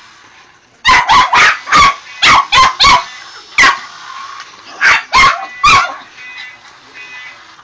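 A dog barking excitedly: about eleven short, sharp barks in quick clusters of three or four, starting about a second in and stopping near six seconds.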